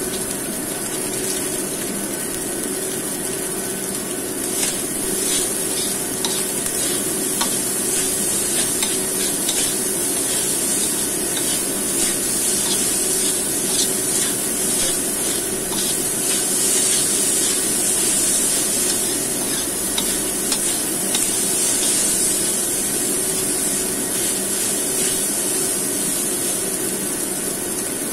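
Fried rice sizzling in a wok with a steady high hiss, while a metal spatula stirs and scrapes through it, making frequent light scrapes and taps against the pan.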